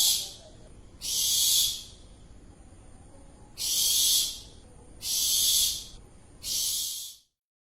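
A bird giving harsh, hissing screech calls. There are five calls, each about half a second long, spaced one to two and a half seconds apart, and they stop shortly before the end.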